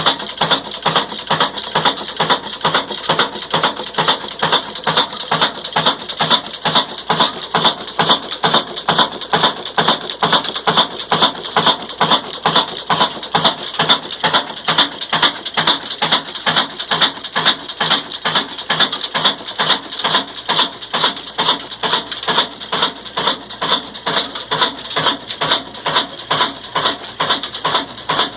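Old black Ruston Hornsby diesel engine running a chakki flour mill, with a steady, even clacking at about two and a half beats a second.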